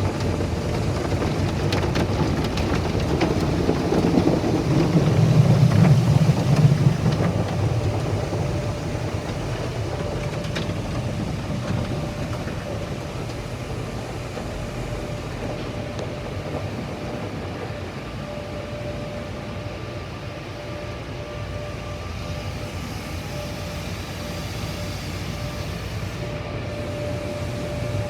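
Car wash machinery running: a steady mechanical rumble that swells a few seconds in and then settles, with a faint steady whine joining about halfway through.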